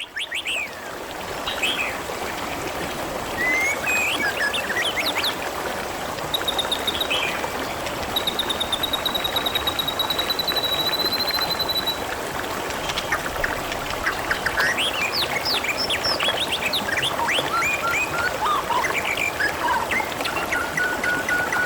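Water trickling and splashing steadily, with birds calling over it: short chirps, one long rapid high trill from about six to twelve seconds in, and a steadier lower trill near the end.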